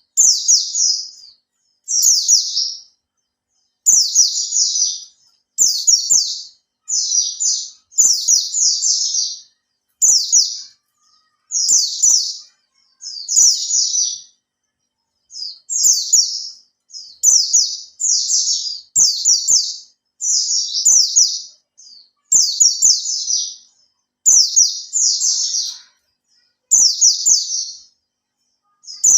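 A young white-eye (pleci) singing: high, fast chattering phrases about a second long, repeated in clusters of one to three with short pauses between.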